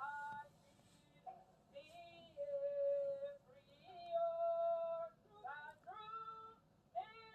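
A woman singing, fairly faint, in short phrases with long held notes.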